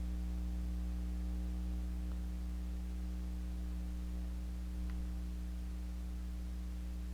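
Steady low electrical hum with a few overtones, typical of mains hum picked up in the recording. There are two faint ticks, about 2 and 5 seconds in.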